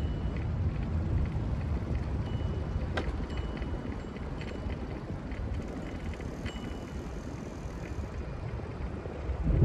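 Steady low rumble of wind and road noise on a phone microphone while riding, with a brief click about three seconds in and a swell in loudness near the end.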